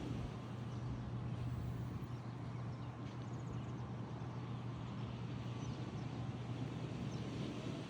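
Outdoor ambience: a few faint, short, high bird chirps over a steady low hum and a constant background rush.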